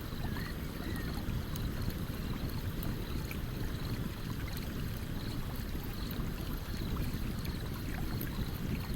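Stream water running steadily, with a campfire crackling in small faint snaps over it. A faint high chirp repeats evenly, about three every two seconds.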